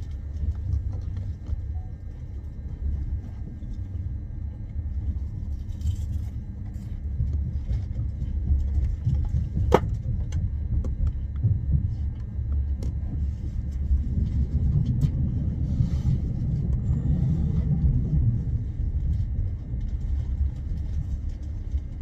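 Steady low rumble of a moving train, swelling a little near the middle, with one sharp click about ten seconds in.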